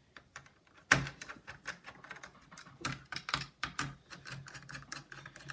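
Small sharp clicks and taps of a metal laptop heatsink being set in place and its screws driven in with a precision screwdriver, with a sharper tap about a second in and a quick, irregular run of clicks after it.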